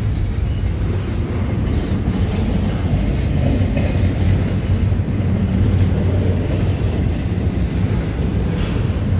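Double-stack intermodal container freight train of Canadian National passing close by: a loud, steady rumble of steel wheels on rail, with faint clicks now and then.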